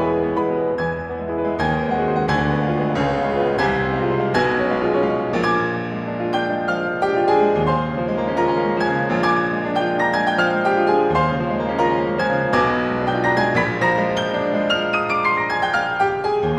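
Background piano music, a flowing melody of many quick notes over sustained low bass notes.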